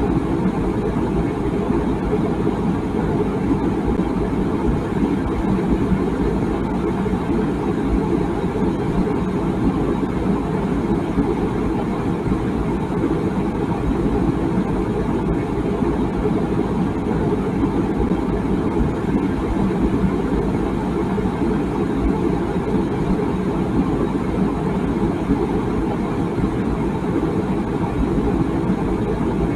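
Water boiling in a tea kettle: a steady, even low rumble with no whistle.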